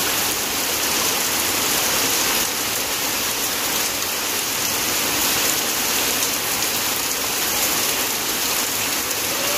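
Heavy rain falling steadily on wet ground and puddles, an even, constant hiss.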